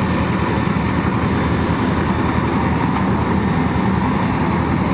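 Engine-driven site machinery running steadily, a dense low rumble with no breaks.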